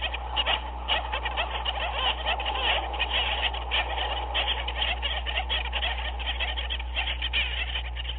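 Dense chorus of many animals calling at once, short croaking calls overlapping continuously over a steady low hum.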